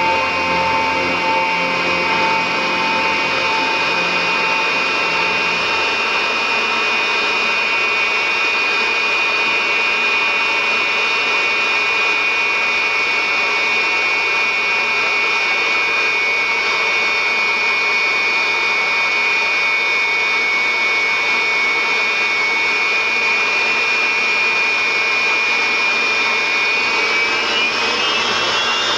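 Jet engines of the Frecce Tricolori's Aermacchi MB-339 trainers, whose Rolls-Royce Viper turbojets give a loud, steady high whine over a rushing noise; the whine rises in pitch near the end.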